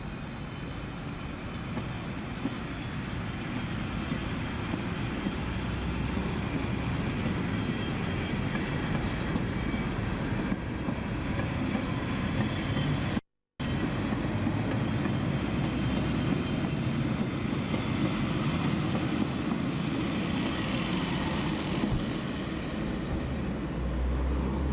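Metre-gauge Berner Oberland-Bahn train rolling slowly past: steady noise of its wheels running on the rails, growing a little louder, with a deeper rumble near the end. The sound cuts out completely for a moment about halfway through.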